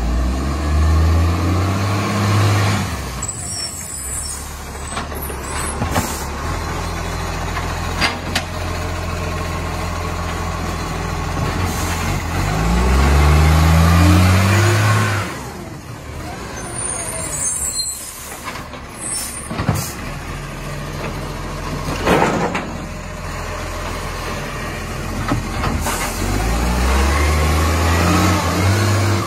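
Garbage truck engine running and revving up three times, each rise in pitch lasting a couple of seconds, with a few sharp clunks in between.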